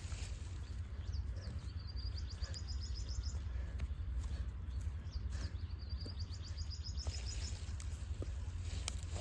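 A small bird trilling twice in fast runs of high chirps, about ten a second and each run about a second and a half long, over a steady low rumble and a few faint scattered knocks.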